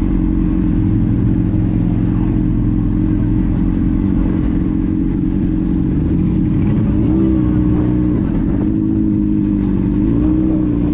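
Car engine running steadily. In the second half its pitch rises and falls twice, as with light throttle changes.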